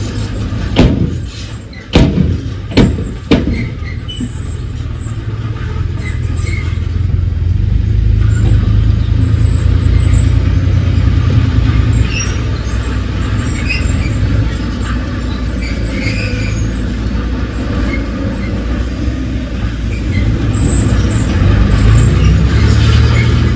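Heavy diesel earthmoving machinery running, with a steady low rumble that swells and eases a little. A few sharp, loud metallic knocks or clanks come in the first few seconds.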